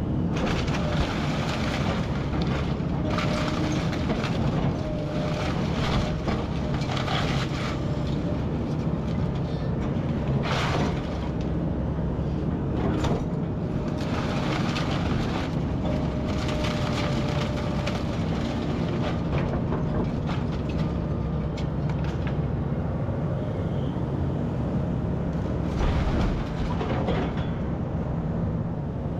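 Kobelco SK210 hydraulic excavator demolishing a brick house: the diesel engine runs steadily under a faint hydraulic whine, while debris crashes and crunches again and again at irregular times.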